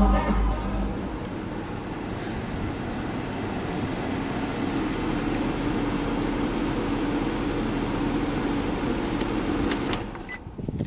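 Infiniti G35's 3.5-litre VQ35 V6 idling steadily, run briefly after an oil change to circulate the fresh oil. It stops about ten seconds in, and a click follows near the end.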